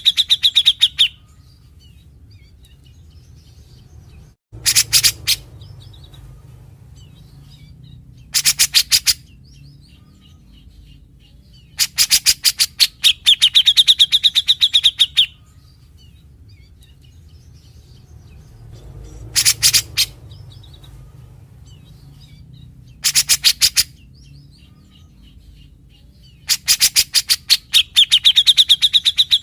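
Cucak jenggot (brown-cheeked bulbul, Alophoixus bres) singing in loud bursts of very fast rattling notes every few seconds, the 'besetan' phrases it is known for. The longer bursts carry a steady high whistle within the rattle.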